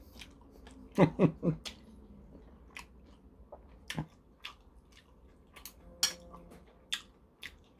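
Close-up chewing and wet mouth smacks of someone eating a mouthful of stewed pork, made up of scattered short clicks. A couple of brief murmurs come about a second in.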